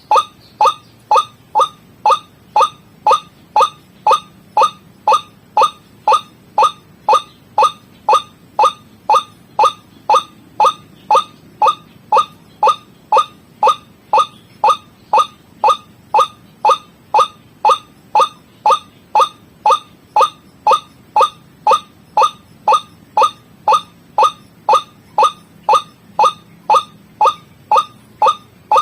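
White-breasted waterhen (ruak-ruak) calling: one short note repeated steadily about twice a second. This is a looped lure recording used to call in the birds for trapping.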